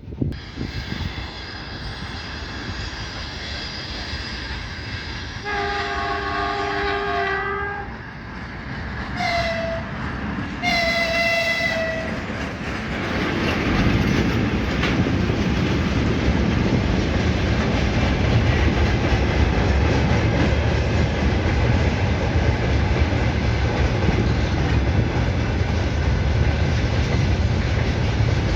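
Train horn sounding three times, a long blast, a short one and a medium one, as the train approaches, then the train passing close with a loud steady rumble of wheels on the rails.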